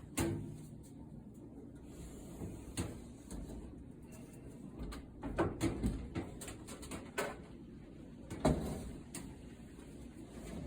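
Irregular clicks and knocks of screws, a screwdriver and sheet-metal panels being handled while a dryer's casing is screwed back together, with a cluster of knocks about halfway through and a sharper knock near the end.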